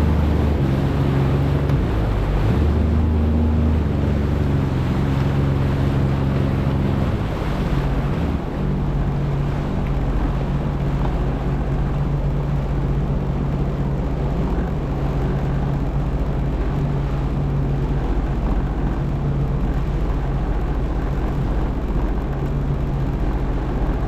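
Jet ski engine running steadily under wind and water noise, its note shifting and dipping briefly about eight seconds in before settling into an even drone.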